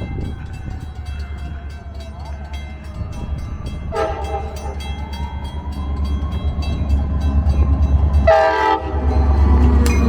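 Metra commuter train approaching, its low rumble growing louder, with a short horn note about four seconds in and a stronger horn blast of about half a second near the end. A rapid, steady dinging, about three strikes a second, runs underneath.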